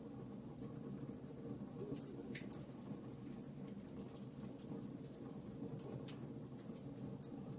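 Wood fire burning in a fireplace, crackling with frequent small, irregular pops over a steady low rush of the flames.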